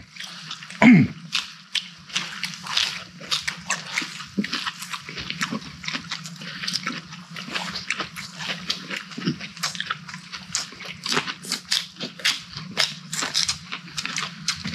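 Close-miked chewing: many quick, irregular wet crunching and smacking clicks from mouthfuls of food, over a steady low hum.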